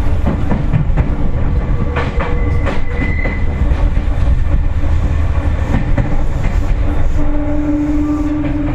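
Seibu 4000 series electric train running, heard from inside the car: a steady low rumble with wheels clacking over rail joints, a few sharp knocks about two to three seconds in. A steady hum joins about seven seconds in.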